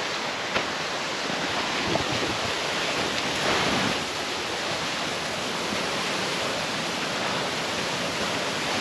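Waterfall rushing steadily, with a few faint knocks in the first half.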